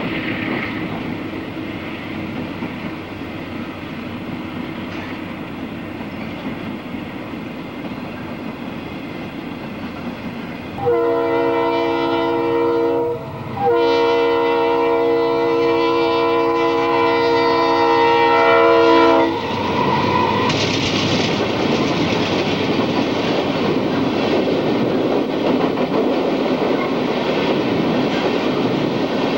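Diesel freight locomotives running past. About eleven seconds in, the horn sounds a short blast and, after a brief break, a long blast of about five and a half seconds. The rolling noise of the hopper cars going by follows.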